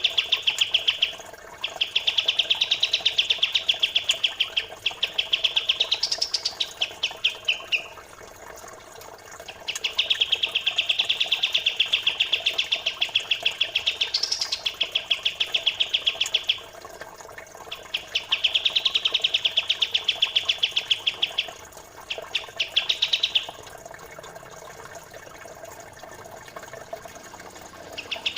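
Recorded songbird song for bird training: long bouts of rapid, dense chattering trills, several seconds each, some ending in a short rising note, with pauses between. The song is that of a pied triller (kapas tembak) and a fast-singing tree sparrow, with running water faintly beneath.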